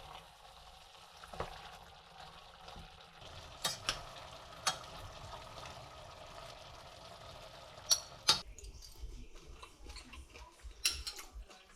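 Food sizzling in a pan while a utensil stirs it, with sharp clinks of the utensil against the pan scattered throughout; the sizzle dies away about eight seconds in, just after two loud clinks.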